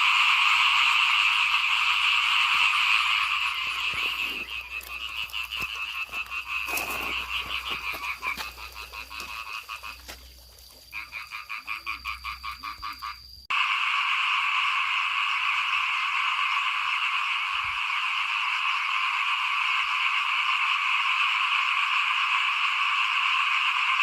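A dense chorus of small paddy frogs (khiat) calling. In the middle it thins out to separate rapid pulsing calls, then the full chorus comes back suddenly a little past halfway.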